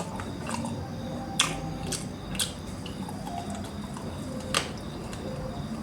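Close-miked eating sounds: a few sharp mouth clicks and smacks from chewing, four of them spread over several seconds, over a faint steady background hum.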